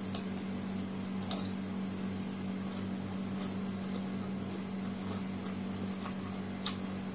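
Mouth noises of eating crisp jalebi: a sharp crunch just as it is bitten, another about a second later, and a few fainter clicks of chewing near the end, over a steady low hum.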